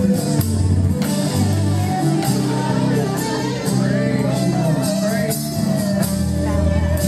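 Live worship band playing with guitar, keyboards and drums, a voice singing over it and holding one long note in the second half.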